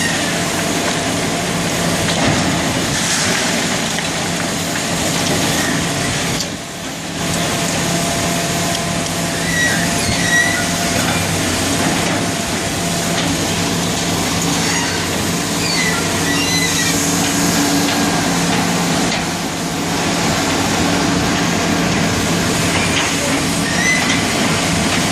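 Heavy diesel machinery running steadily, with short high-pitched squeaks every few seconds.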